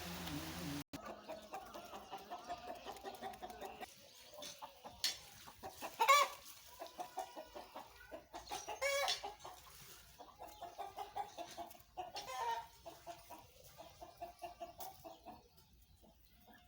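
Chickens clucking in a run of short, repeated calls, with two louder calls about six and nine seconds in.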